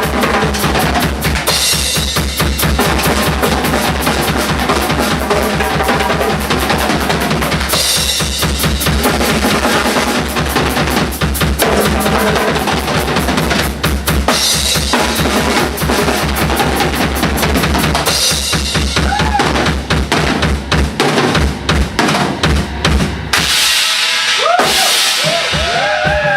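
Live rock drumming: a fast, even run of double bass drum strokes with snare and cymbal crashes every few seconds. Near the end the kick drum thins out and electric guitar bends join in.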